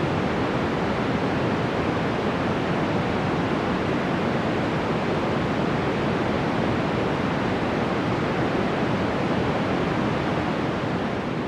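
Steady, even rushing noise of a rainforest sleep-ambience track, like dense falling water, with no distinct calls, drops or other events standing out.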